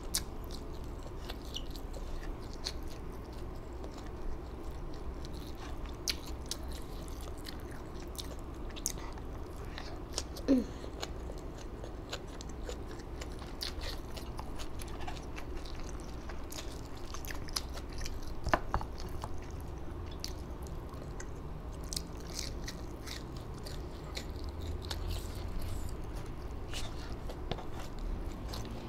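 Close-up chewing and biting of food, with many small crunches and wet mouth clicks throughout. A brief falling tone sounds about ten seconds in.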